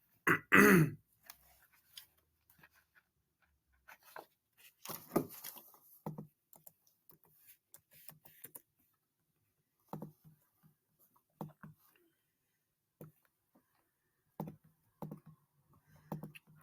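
Quiet small room: a short vocal sound like a throat clearing about half a second in, then scattered soft clicks and brief small noises with stretches of near silence between them.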